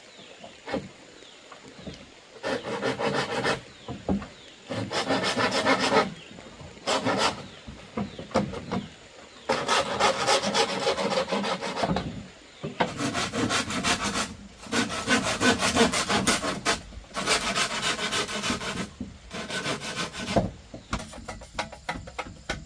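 Hand saw cutting through bamboo in quick back-and-forth strokes. The sawing comes in runs of one to two seconds, broken by short pauses.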